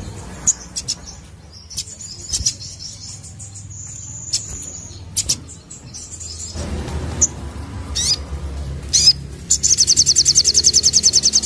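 Crimson sunbird singing: high, thin notes and sharp chips, then, near the end, a loud, rapid trill of about ten notes a second.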